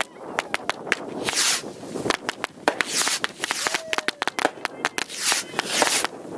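A string of firecrackers popping in rapid, irregular volleys, with bursts of hissing crackle between them.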